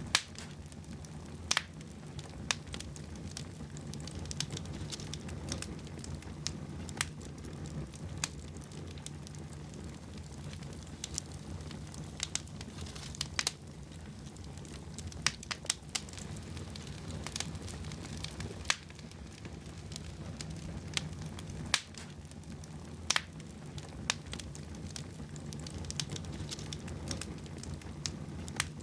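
Wood fire burning in a fireplace: a steady low rumble of flames with irregular crackles and sharp pops every second or two.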